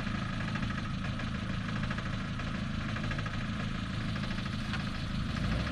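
Suzuki off-road vehicle's engine idling steadily.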